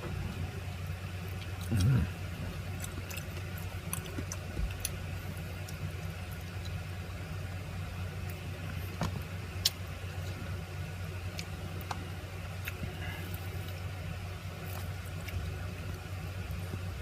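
A steady low hum with scattered faint clicks and taps of eating and utensils against a plate, and a brief low thump about two seconds in.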